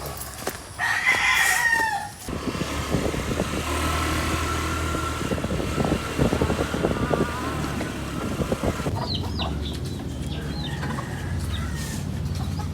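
A rooster crows about a second in, then a steady low engine hum runs for the rest of the time, with small birds chirping briefly near the end.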